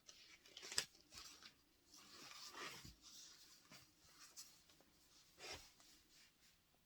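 Faint rustling of paper and T-shirt fabric being handled, with a few light taps and clicks scattered through.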